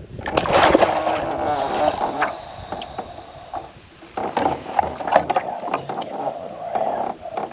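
Hooked carp thrashing and splashing at the side of a fishing kayak, with scattered knocks against the hull; the loudest splashing comes in the first second.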